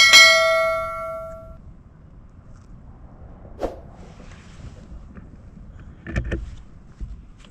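A sharp knock that rings with a clear tone for about a second and a half, then a lone faint knock and, near the end, a short cluster of duller knocks.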